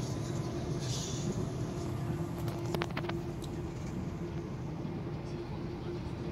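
A train's running noise heard from inside a moving carriage: a continuous low rumble with a steady hum. A few short clicks come about three seconds in.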